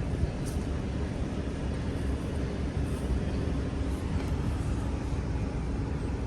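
Steady low engine rumble with no clear change in pitch.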